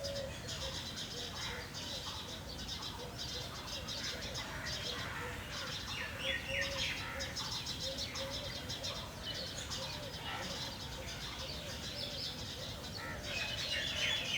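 A group of pet birds chirping continuously, with louder sweeping calls about six seconds in and again near the end, over a low call repeated again and again.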